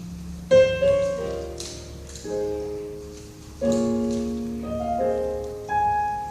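Piano or keyboard playing slow sustained chords, a new chord struck every second or so and fading between strikes, as the instrumental opening of a gospel praise song.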